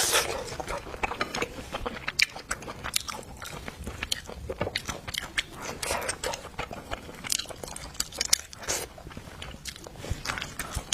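Close-miked eating of king crab: biting and chewing, with many irregular sharp clicks and crunches from the crab shell.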